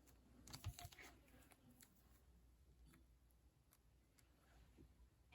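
Near silence with a few faint, short clicks, clustered about half a second to a second in and scattered a few more times after.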